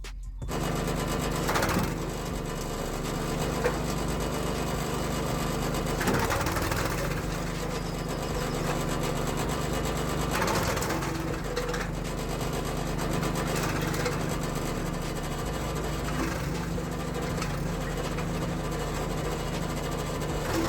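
Homemade branch chipper driven by a Vitals Master QBM 7.0k single-cylinder petrol engine, running steadily, with louder rough surges every few seconds.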